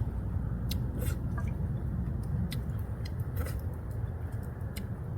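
A person chewing a mouthful of ramen, with scattered sharp clicks over a steady low rumble.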